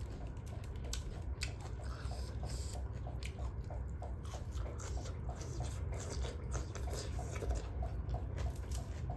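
Close-up chewing and wet mouth clicks of someone eating duck curry, in a steady chewing rhythm over a steady low hum.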